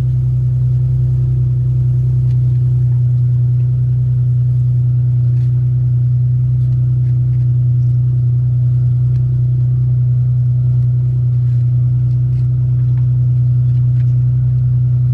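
Rally car engine idling steadily, heard from inside the roll-caged cabin: an even low hum with no revving.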